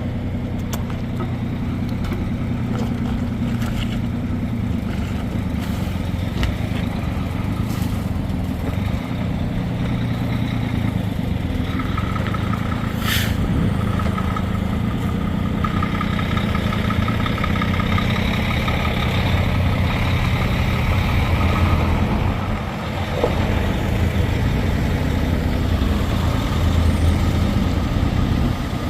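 Truck engine running steadily, a low even hum that dips briefly about 23 seconds in.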